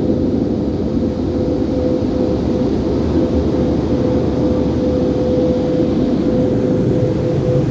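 Sonny's express car wash tunnel equipment running: a loud, steady low rumble with a constant hum throughout.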